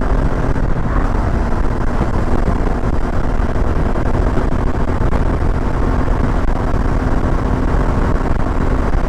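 Motorcycle riding at steady speed: wind rushing over the microphone with the Suzuki V-Strom 650 XT's V-twin engine running evenly underneath.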